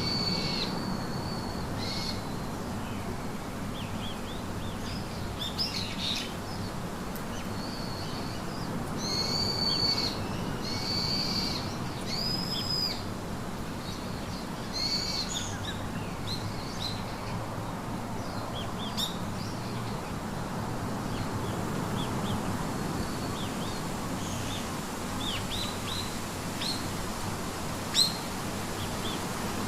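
Songbirds calling over a steady background hiss: clear, arched high notes, some held for about a second, through the first half, then many short, quick chirps. A single brief sharp sound comes near the end.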